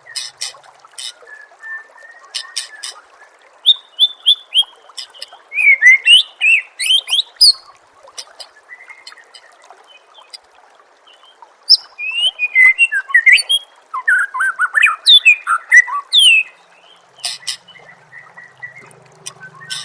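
White-rumped shama singing in loud bursts of rapid, varied phrases: quick sweeping whistles mixed with sharp clicking notes, with a quieter stretch in the middle. A faint steady trickle of water runs underneath.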